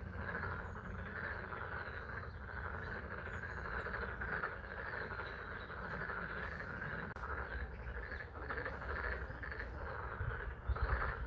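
A chorus of many frogs calling steadily from a pond, a dense overlapping trill, over steady spring rain. A few low bumps come near the end.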